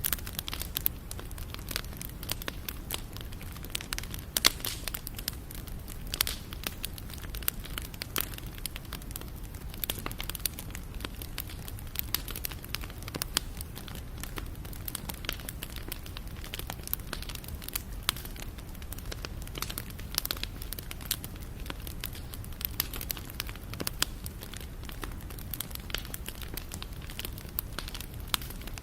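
Wood fire burning steadily, with dense irregular crackles and pops over a low rumble.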